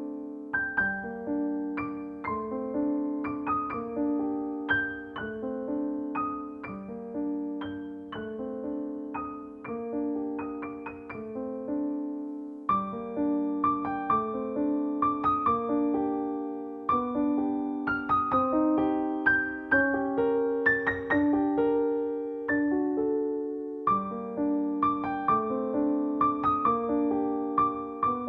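Solo piano music, gentle arpeggiated figures in a steady flowing rhythm.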